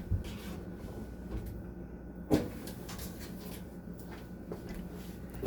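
Kitchen handling noises: a soft knock just after the start, a louder knock about two seconds in, and a sharp click near the end, over a steady low hum.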